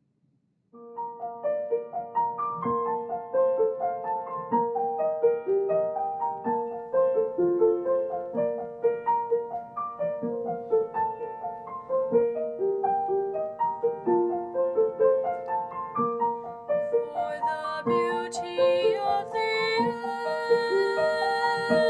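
Solo piano playing a steady flow of notes, starting about a second in. Brighter, higher sounds join in over the last few seconds.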